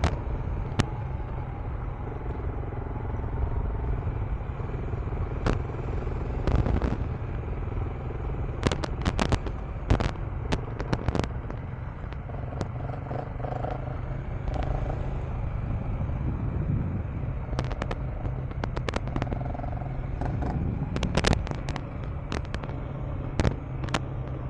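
KTM 390 Enduro R's single-cylinder engine running at riding speed under a steady wind rush on a helmet microphone, broken by frequent sharp pops and knocks.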